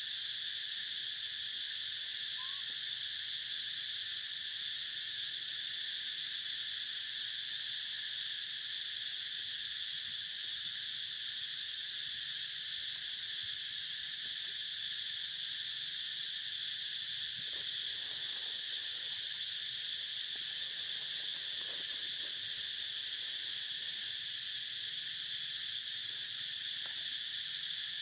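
Steady chorus of insects, a continuous high-pitched drone with no break.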